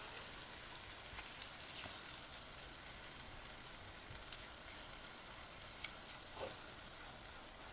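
Scrambled eggs and vegetables sizzling faintly in a non-stick frying pan as a silicone spatula stirs and breaks them up, with a few light ticks of the spatula against the pan.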